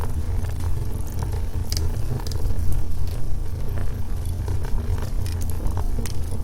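Wood logs burning in a fireplace: a steady low rumble of the flames with scattered crackles and pops.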